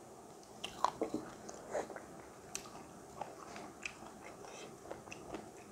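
Close-up chewing and biting of chicken-wing meat off the bone, with irregular short clicks and crackles, the strongest about a second in.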